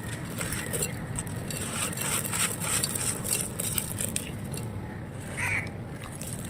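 Dry clay being crushed and crumbling, with dense irregular crackles and gritty grains falling, busiest in the first few seconds and thinning toward the end.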